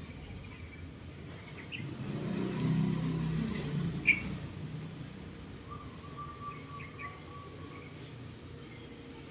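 Outdoor background noise: a low rumble that swells and fades over about three seconds, with a sharp high chirp about four seconds in and a few fainter chirps scattered around it.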